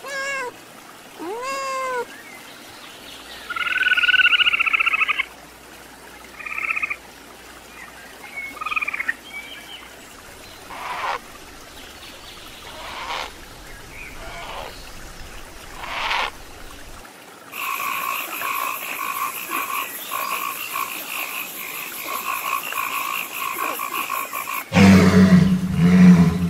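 A domestic cat meows at the start. Then come harsh, separate calls from a great blue heron and a long run of rapid, rhythmic croaking. Near the end a walrus gives a loud, deep bellow.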